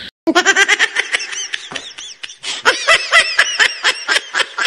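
High-pitched laughter: a fast string of short, repeated 'ha' syllables that starts just after a brief silent gap.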